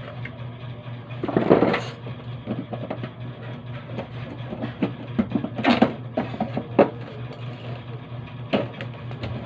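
Knocks, scrapes and rattles of parts and tools being handled during a washing machine repair, over a steady low hum. The loudest scrape comes about a second and a half in, with shorter knocks later.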